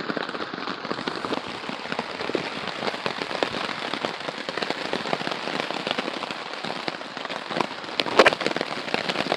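Heavy rain pattering on a taut tarp overhead, a dense steady patter of many sharp drop hits, with a louder clatter of drops a little after eight seconds.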